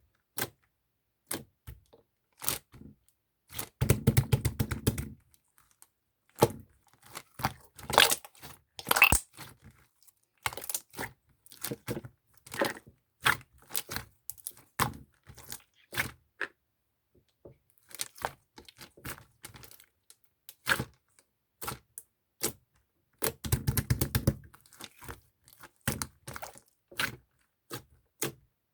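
Close-up handling of small objects: a string of short clicks, taps, crackles and tearing or crinkling noises, with two longer stretches of dense rustling about four seconds and twenty-three seconds in.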